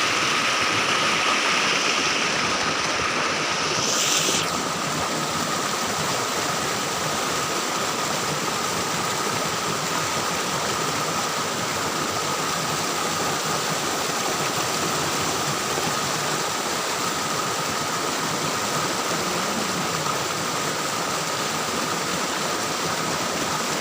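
Steady rushing of river water, an even unbroken noise; its brighter hiss drops a little about four seconds in.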